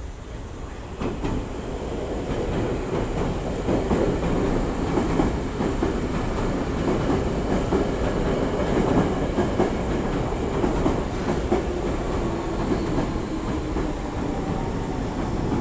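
Electric train running on the tracks: wheel and running noise with some rail clatter, growing louder about a second in and then holding steady.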